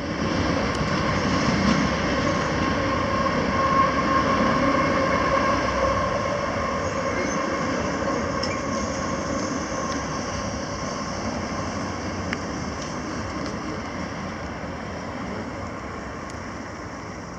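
Loaded coal train's hopper cars rolling past on the rails, with a steady wheel squeal over the rumble. The sound slowly fades.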